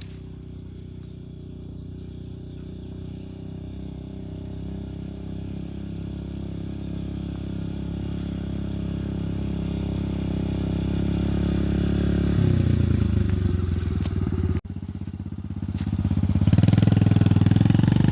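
Dirt bike engine running and growing steadily louder as the bike comes closer, then revving harder and louder about two-thirds of the way in, with a brief dropout just after.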